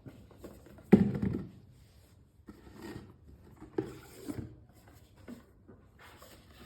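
Toy pieces being handled and set in place: a few separate knocks and clatters, the loudest about a second in.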